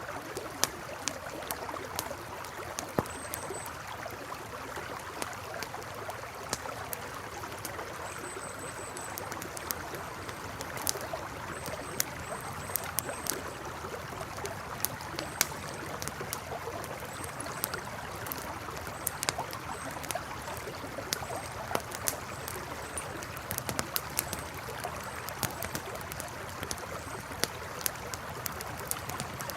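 Campfire crackling with sharp, irregular pops over a river's steady rush. Faint, short, high chirps repeat now and then from a few seconds in.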